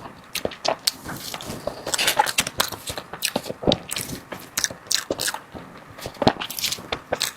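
A person biting and chewing dessert close to the microphone: wet, irregular crackling and clicking eating sounds with soft smacks.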